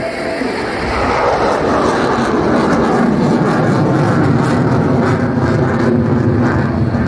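Loud jet noise from an F-22 Raptor's twin turbofan engines during an airshow display, swelling about a second in and staying loud.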